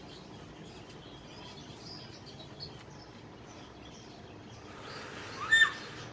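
Faint chirping of small birds in the background, then near the end a pet parrot gives one short, loud call that rises in pitch.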